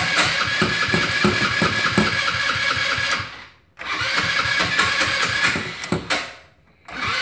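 Electric starter cranking a cold 150 cc carbureted Chinese go-kart engine over and over without it catching, a failed cold start in freezing weather. It cranks for a few seconds, pauses briefly, cranks again for about two and a half seconds, pauses, and starts cranking once more near the end.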